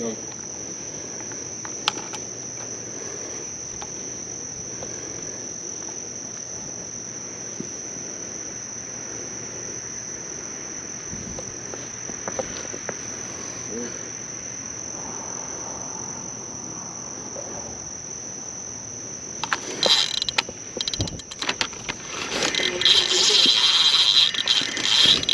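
Night insects singing as one steady high-pitched drone. Near the end, a louder run of mechanical clicking and rattling joins it.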